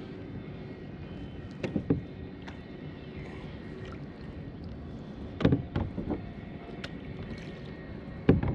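Knocks and clunks of handling on a kayak afloat over a steady low background hum: a pair of knocks about two seconds in, a cluster of several just past the middle, and one loud knock near the end.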